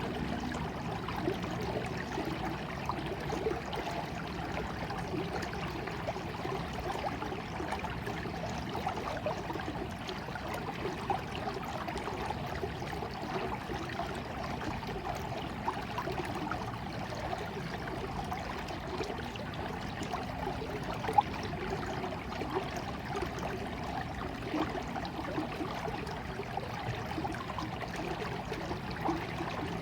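A small stream of water flowing and trickling steadily over stones, with a few brief louder splashes.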